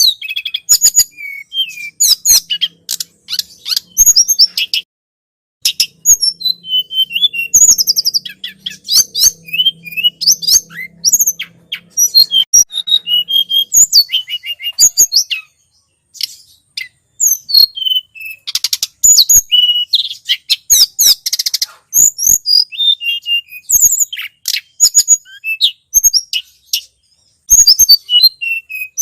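Tledekan gunung songbird singing a rapid, high-pitched string of chirps and trills, played as a looped bird-lure recording. Short pauses come about five, fifteen and twenty-seven seconds in.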